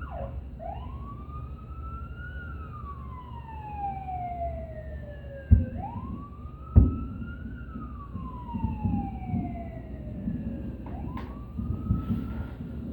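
An emergency vehicle siren wailing in slow cycles: each rises quickly, then falls slowly over about five seconds, twice, with a third rise near the end. Two loud firework booms go off a little past the middle, over a low rumble of distant bursts.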